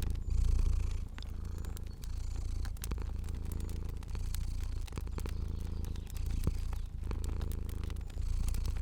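Domestic cat purring, a low rumble that swells and eases with each breath about once a second, with sharp crackles and pops of a wood fire scattered over it.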